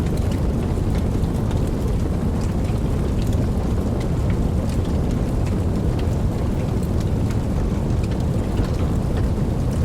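Steady rain with a deep, even rumble underneath and scattered individual drops ticking through it.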